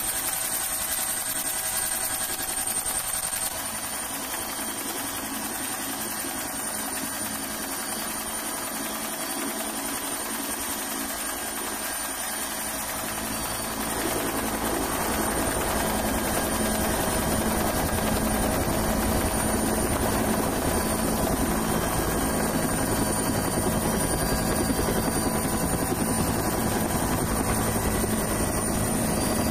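Helicopter in flight, its rotor and turbine running steadily with a thin high whine. The noise drops a little a few seconds in and grows louder about halfway through.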